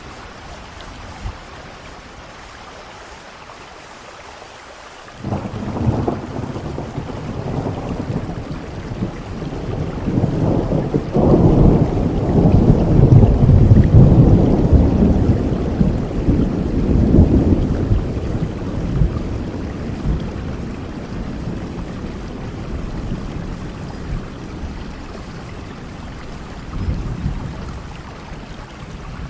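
Steady rain, then thunder breaking about five seconds in and rolling into a long, deep rumble that is loudest midway and slowly dies away, with a smaller rumble near the end.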